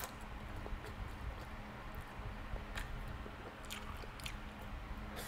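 A person chewing a mouthful of stir-fried instant noodles, with short wet mouth clicks at irregular intervals. A faint steady hum runs underneath.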